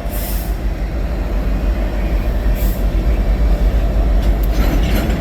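Train rolling past with a steady heavy low rumble. Two short hisses come early and midway, and a run of sharp wheel clacks starts about four seconds in.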